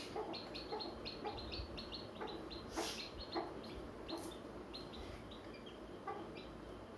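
Hen clucking among chicks that peep in many short, high calls, with a few brief knocks.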